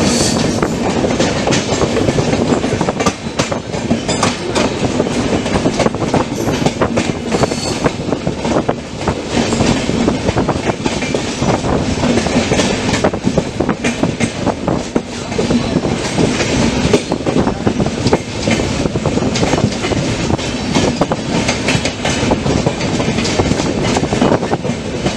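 Indian Railways express train running at speed, its wheels clattering rhythmically over the rail joints, with a steady rumble and frequent clicks.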